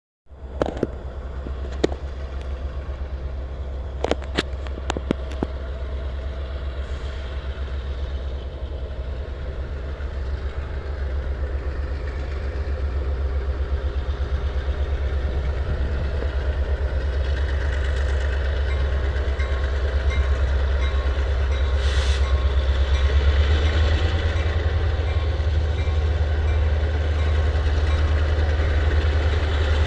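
Union Pacific diesel locomotives pulling a freight train, a heavy low rumble that grows steadily louder, with a few sharp clicks in the first seconds.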